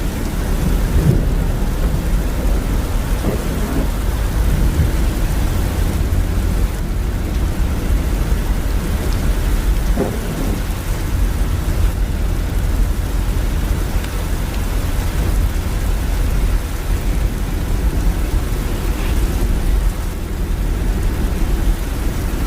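Heavy rain falling steadily, over a constant low rumble from driving on a wet highway.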